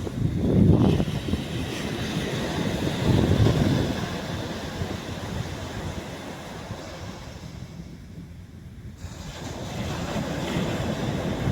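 Sea waves breaking and washing up a beach, with wind noise on the microphone. The surf swells about a second in and again around three seconds, dies down, then builds again near the end.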